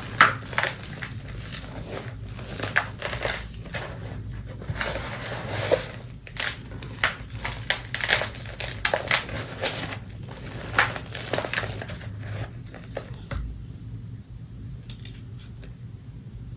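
Reformed gym chalk being crushed and crumbled by hand: a dense run of dry crunches and crackles that thins to a few faint crackles for the last few seconds.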